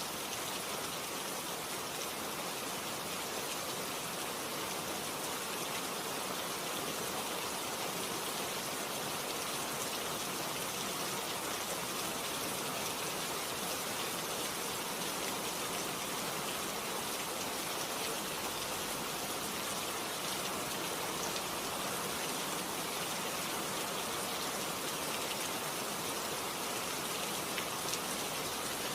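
Steady rain falling in a forest, an even hiss with faint scattered drops.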